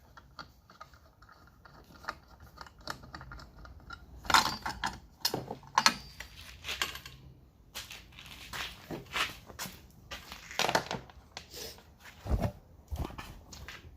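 Hands and tools working on an ATV's recoil pull-start assembly: irregular clicks, scrapes and metallic rattles of small parts being handled, with a dull thump about two seconds before the end.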